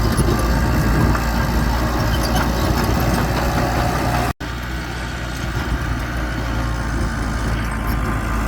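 Diesel engine of heavy earthmoving machinery running steadily at low revs. The sound cuts out for an instant a little over four seconds in, then carries on slightly quieter.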